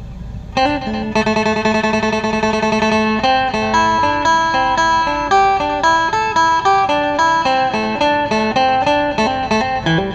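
Phin, the Thai-Lao plucked lute, playing a quick picked melody over a steady drone, starting up again about half a second in after a brief pause.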